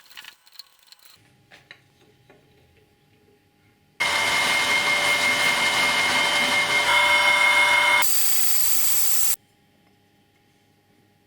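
A few light clicks and handling knocks, then an electric power tool running with a steady whine. It cuts in suddenly about four seconds in, shifts in tone twice, and stops abruptly a few seconds later.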